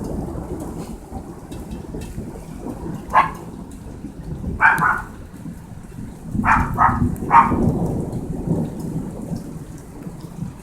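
Heavy rain with thunder rumbling low, the rumble swelling about six seconds in. A dog gives five short, sharp barks over it, the last three close together.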